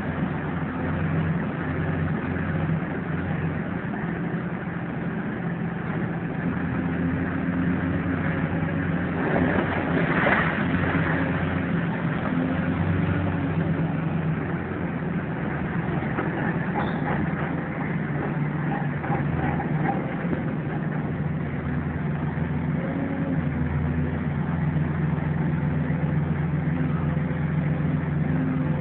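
Diesel engine of heavy demolition machinery running steadily, with a louder noisy rush lasting about a second around ten seconds in.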